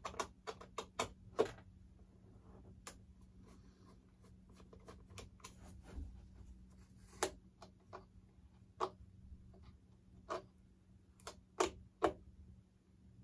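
Irregular light clicks and taps of a screwdriver working at small screws in a model airplane, with a faint steady hum underneath.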